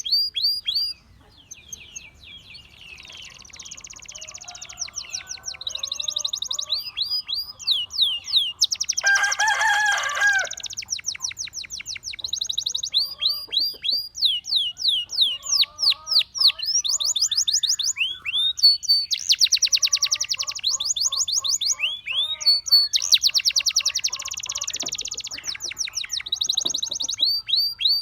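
Gloster canary singing a continuous song made of rapid trills of repeated high, falling whistles. About nine seconds in comes a short, louder phrase with lower, harsher notes, and softer lower warbling runs underneath at times.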